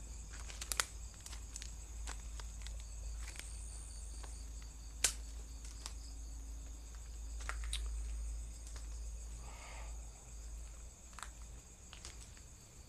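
Insects chirring steadily in a high, even band, with scattered sharp clicks and a low rumble underneath.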